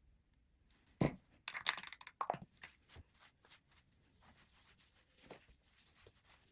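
Handling noises: a sharp knock about a second in, then about a second of crinkling or tearing, then faint scattered clicks.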